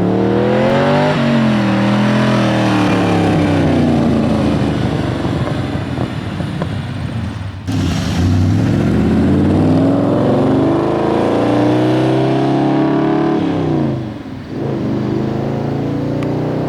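1985 Lamborghini Jalpa's 3.5-litre V8 revving, its pitch climbing and falling several times, with a sudden break about eight seconds in and a brief dip near the end.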